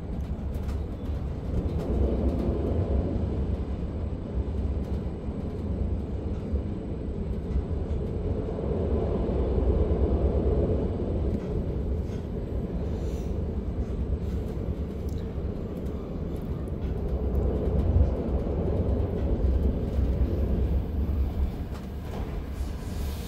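Running noise of a DPZ double-deck train (Re 450), heard from inside a coach. A steady low rumble lies under wheel-on-rail noise that swells and fades three times.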